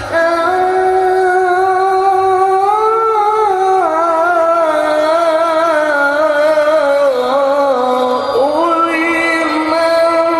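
Melodic Qur'an recitation (tilawah) by a male qari: one long held note, wavering with ornaments, dips in pitch and breaks off about eight seconds in. A new higher, ornamented phrase follows.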